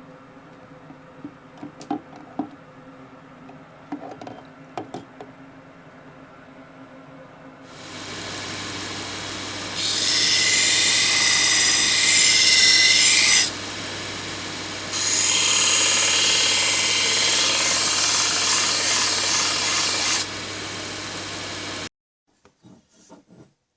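A few light knocks, then an electric grinder starts and runs with a steady hum. Steel is pressed against it twice, a loud hissing grind of several seconds each time, and the sound cuts off suddenly near the end.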